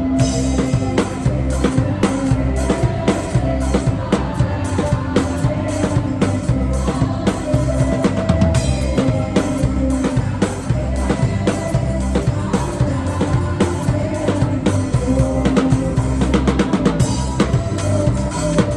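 Drum kit played live, with bass drum and snare strokes in a steady groove, along with worship band music, picked up by a phone's microphone in the room.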